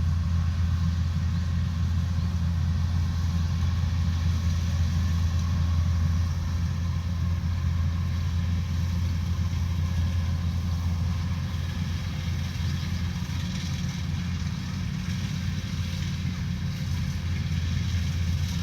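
Combine harvester engine running steadily with a deep, even hum, easing off a little in loudness past the middle and picking up again near the end.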